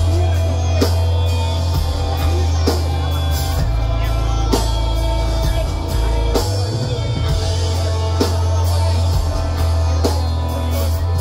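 Live pop-punk band playing an instrumental passage: drum kit, bass and electric guitars, loud and steady, with drum accents about once a second.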